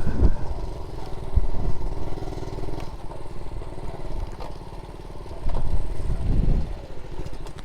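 Honda Z50J monkey bike's small single-cylinder four-stroke engine running as it is ridden at low speed, easing off and then getting louder again a little past halfway.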